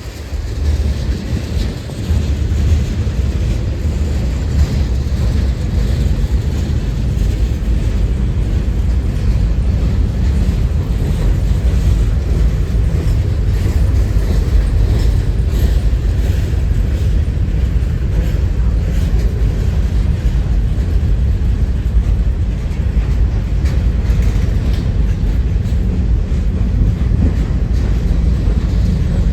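A train rolling past, a steady low rumble with faint rail clicks, mixed with strong wind buffeting the microphone.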